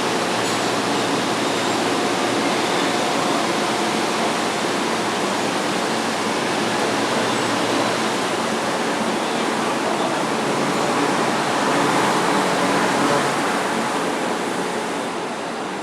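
Electric commuter train pulling out along the platform: a steady rush of wheel and running noise that swells about three-quarters of the way through and then begins to fade.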